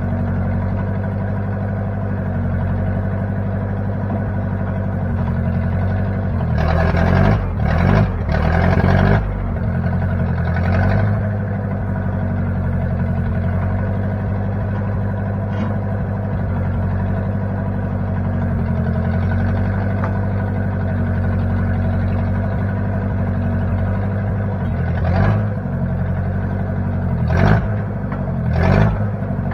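Engine of a 1960 Case 540 backhoe running steadily, with a few short louder bursts about seven to nine seconds in and several more near the end.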